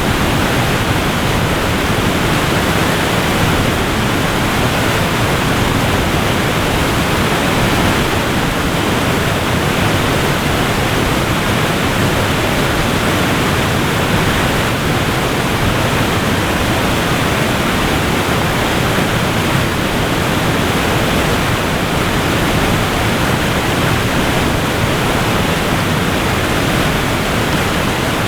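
Waterfall rushing: a steady, dense roar of falling water with no breaks.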